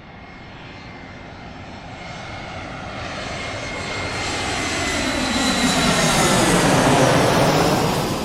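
Fixed-wing airplane flying overhead, its engine sound building steadily louder to a peak about seven seconds in, then beginning to fade as it passes.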